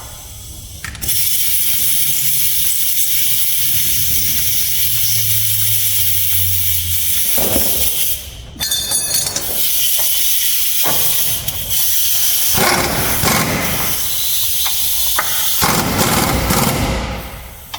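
A loud, steady hiss that starts about a second in, breaks off briefly about eight seconds in and again around twelve seconds, then resumes and fades out near the end.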